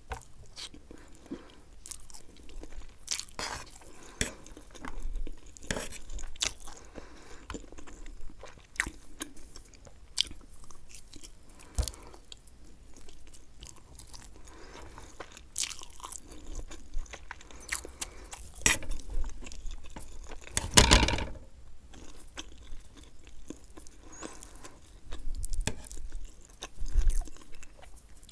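Close-miked mouth sounds of chewing Maggi instant noodles and fried egg: wet, sticky chewing with frequent short clicks and smacks, and one louder burst about two-thirds of the way through.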